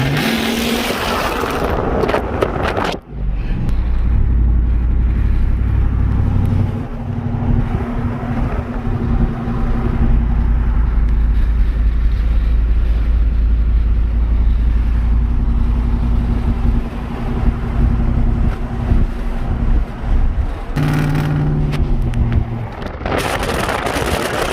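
Ford 5.0 Coyote V8 in a 2018 F150 running through catless 2M headers and an off-road Y-pipe, with a steady deep drone. It is louder and harsher for the first few seconds and again near the end. The exhaust is too loud, and the owner wants an exhaust shop to fix it.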